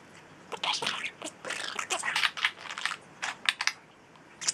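Budgerigar chattering in a run of short, quick clicks and chirps, with a pause near the end.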